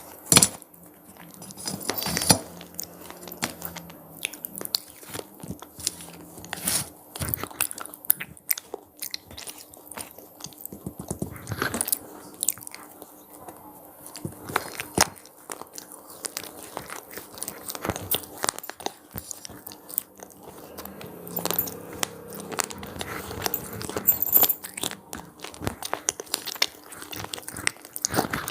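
A person biting and chewing crunchy cheese-pizza-flavoured snacks: sharp crisp crunches at an irregular pace, with quieter chewing between bites.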